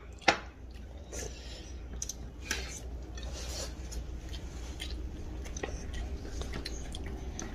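Eating sounds: soft chewing and mouth smacks as a big steamed pork momo is bitten and pulao is eaten by hand from a plate, with a few sharp clicks and taps scattered through.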